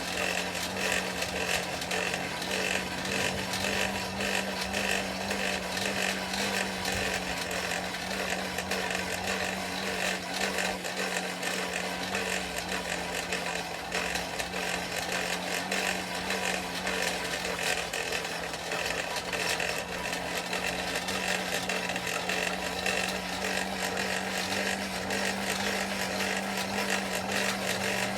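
Coal forge blower running steadily, a constant low hum under the rush of air through the fire, while a chain link is brought up to welding heat.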